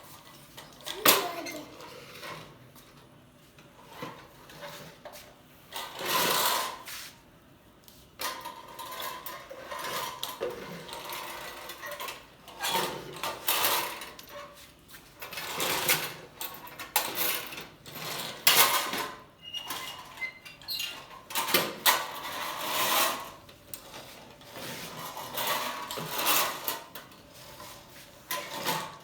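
Toys being handled: irregular rattling and clattering with sharp clicks, in uneven bursts.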